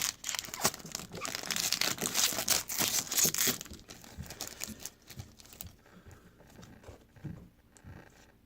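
Trading-card pack wrapper being torn open and crinkled, loudest for the first three or four seconds, then fading into softer scattered rustling.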